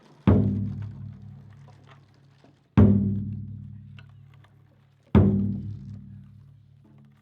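Large Japanese taiko drum struck with single heavy blows, three strikes about two and a half seconds apart, each ringing out in a long deep decay.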